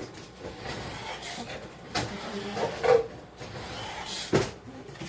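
Kitchen handling noises: a few knocks, the loudest near the end, with brief rustles in between as items are picked up and set down.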